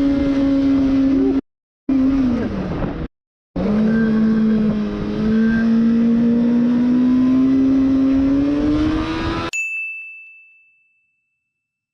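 Motorcycle engine running at a steady pitch, broken by two abrupt cuts. It resumes lower and slowly rises in pitch, then stops suddenly near the end. A single bell-like ding follows and rings out briefly.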